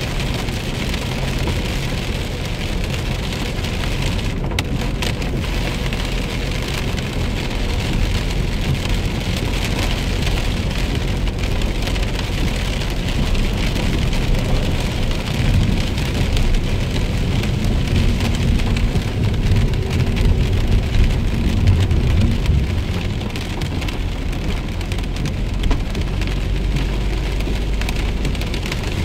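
Heavy rain pattering steadily on a moving car, over a low rumble of the car's engine and tyres that swells for a few seconds midway.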